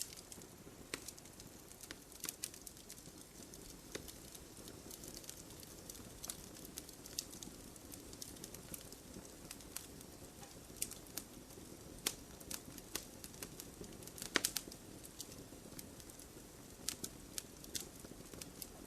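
Campfire burning: irregular sharp crackles and pops over a soft steady hiss, with a cluster of louder pops about fourteen seconds in.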